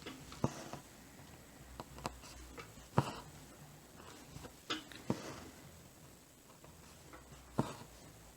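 Cross-stitching by hand: a needle being worked through hooped fabric and the floss drawn through. It is faint, with soft scratchy rustles and about half a dozen scattered light taps and clicks.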